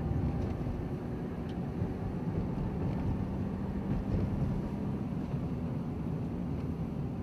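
A steady low drone with a faint hum running through it.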